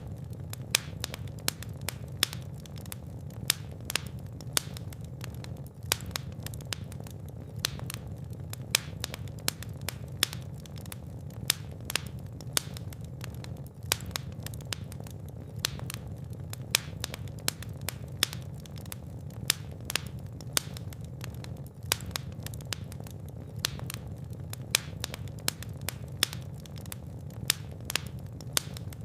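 Fire burning in a fireplace: a steady low rumble of flames with frequent sharp, irregular crackles and pops.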